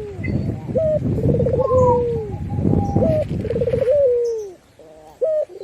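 Zebra dove cooing: a short rising note, a quick rolling trill, then a long falling coo, repeated about every two and a half seconds, over a low rumble.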